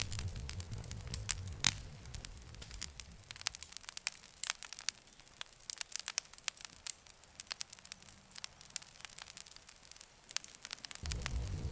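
Wood fire crackling, with frequent sharp pops and snaps. A low rumble under it fades out about three seconds in and returns near the end.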